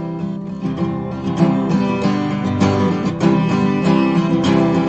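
Acoustic guitar strummed in steady chords, the instrumental introduction before the hymn's first sung line.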